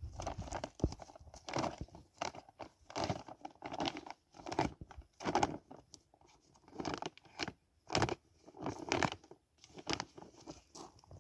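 Dry plant material being torn and crunched in a string of short rustling bursts, about one every half second to second.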